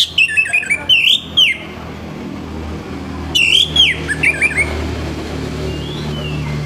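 Orange-headed thrush singing: two bursts of quick, harsh whistled phrases with sliding notes, one at the start and another about three and a half seconds in. A steady low hum runs underneath.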